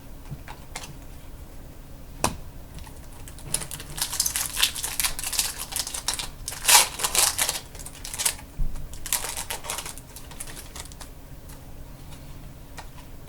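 Trading-card packs and cards being handled: crinkling and rustling of pack wrappers with sharp clicks, busiest in the middle.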